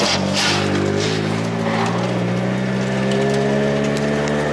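Drift car's engine held at high revs, its pitch creeping slowly up, with a crunching impact of bodywork about half a second in, during a crash.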